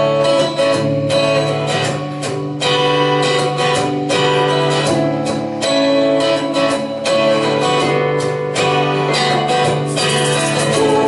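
Guitar music: chords strummed in a steady rhythm over sustained low notes, with no singing.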